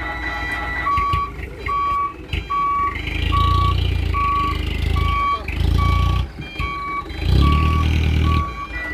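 Dump truck's reversing alarm beeping steadily at one pitch, about three beeps every two seconds, after a higher continuous tone at the start. Heavy diesel engine noise surges loudly three times in the second half.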